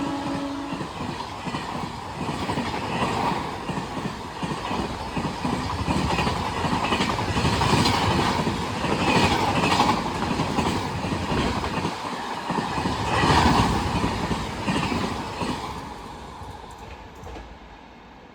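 Train passing through the station at speed, the horn's last note cutting off at the start, then wheels clattering over the rail joints and coaches rushing past in repeated swells, fading away over the last few seconds.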